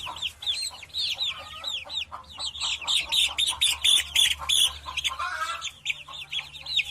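Bird chirping: a fast run of short, high, downward-sliding chirps, several a second.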